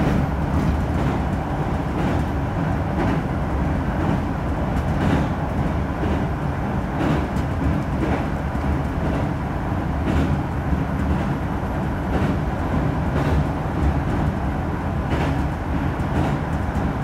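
Electric train running along the track: a steady rumble with faint rail-joint clicks recurring every second or two.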